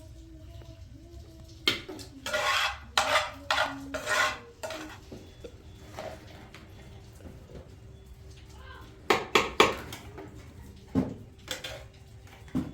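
Pots, dishes and metal utensils clattering and scraping in quick clusters: one run of strokes about two to four seconds in, another around nine seconds, and a single knock near eleven seconds.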